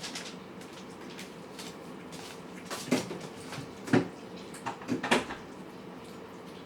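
Cats eating from food dishes: scattered small clicks and a few sharper knocks of the dishes, the loudest about four seconds in, over a low steady hum.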